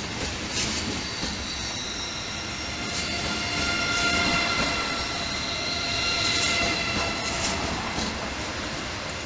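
Train moving slowly through a station with high-pitched wheel squeal: several steady shrill tones that swell in the middle, over rolling noise with a few clicks from the rails.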